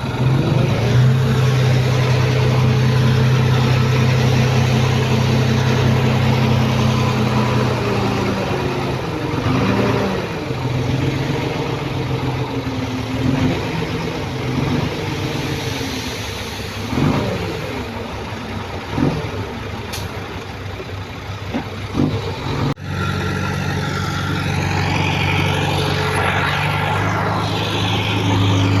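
Diesel engine of heavy earthmoving equipment running. It holds a steady note for the first several seconds, then its pitch rises and falls repeatedly as it works under changing load. After an abrupt cut about three quarters of the way in, a steady engine note returns.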